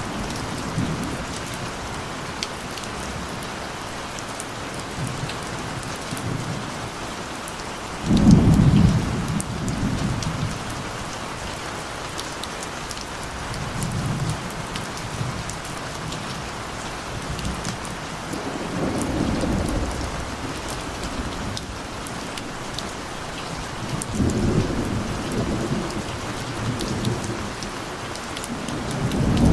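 Steady rain falling, with faint scattered drop ticks, and thunder rumbling again and again. The loudest roll comes about eight seconds in, with softer rolls around the middle and a rising one near the end.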